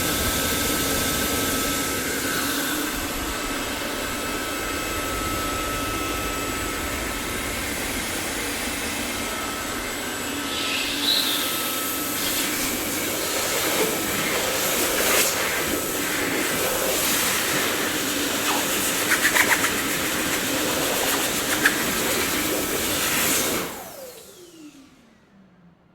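Dyson vacuum cleaner running with a steady rush of air and a faint whine, with a few brief louder moments midway. Near the end it is switched off: the motor winds down in a falling whine and fades to near silence.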